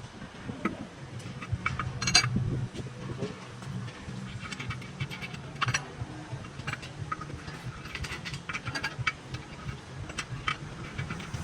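Scattered light metallic clinks and taps, as of steel parts being handled, over a steady low machine hum.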